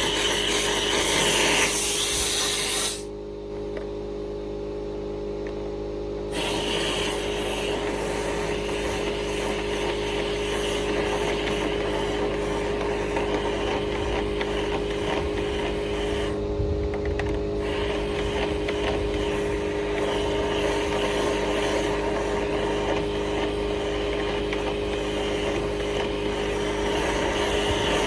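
Power drill spinning a rotary duct-cleaning brush through a dryer vent: a steady motor hum with scraping and rubbing. The scraping drops away for about three seconds near the start, then comes back.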